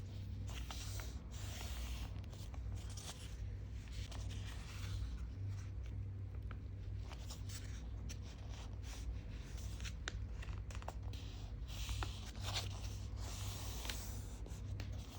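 A sheet of paper being folded and creased by hand: irregular soft rustling and scraping swishes with small crackles, over a steady low hum.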